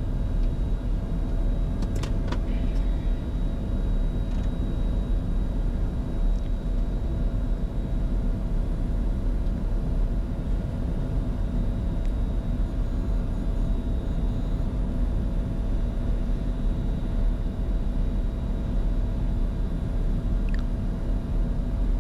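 Steady cockpit noise of a Bombardier Challenger 605 on final approach with gear down and flaps extended: a low rumble of airflow and engines with faint steady tones over it. A couple of light clicks about two seconds in.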